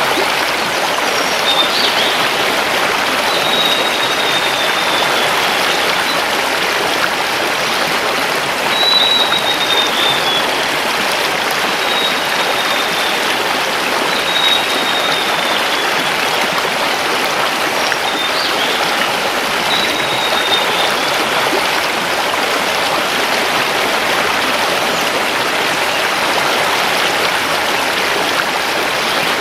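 Mountain river rushing steadily over stones. A forest bird repeats a thin, slightly falling high call several times over the first two thirds.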